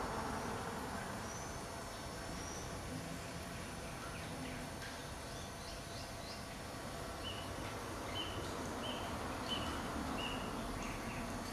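Small birds chirping against a steady background hiss: scattered short high chirps, then a run of similar chirps about one a second in the second half.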